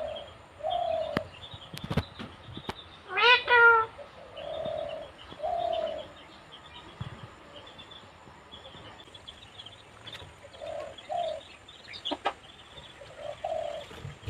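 Bird calls: short, soft cooing notes repeated every second or two, and one loud call from the pet parrot about three seconds in, with a few clicks between.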